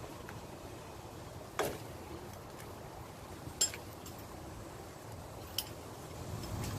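Slow drips of gear oil falling from the differential into a drain pan: three sharp clinks about two seconds apart over a low steady background.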